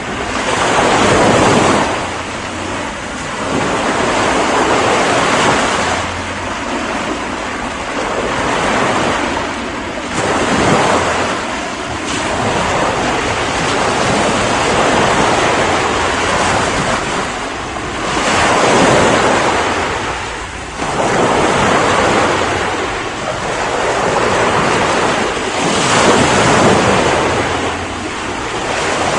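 Ocean waves breaking and washing on the shore, surging in repeated swells every few seconds over a constant rush of surf.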